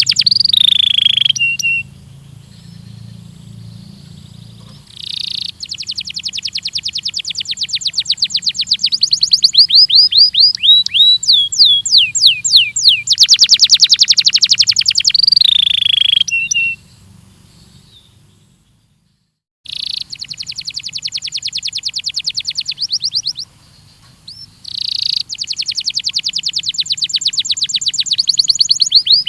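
Belgian canary singing: long, fast trills of rapidly repeated high notes alternating with sweeping downward whistled notes, in phrases separated by short pauses, with a brief silent gap about two-thirds of the way through.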